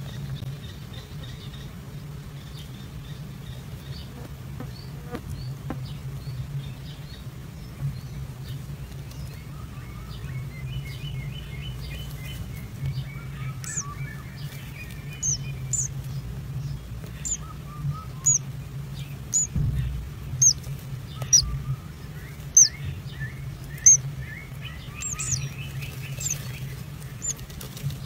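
Birds chirping: short, high, falling chirps come about once a second through the second half, with runs of softer, lower chirping in the middle and near the end, over a steady low hum.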